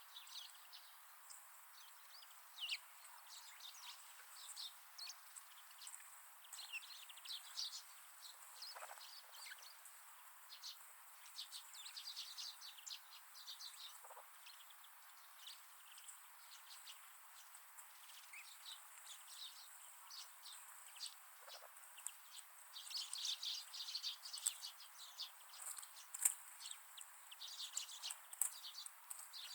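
Small wild birds calling in short, scattered chirps and twitters over a faint steady hiss, growing busier about two-thirds of the way through and again near the end.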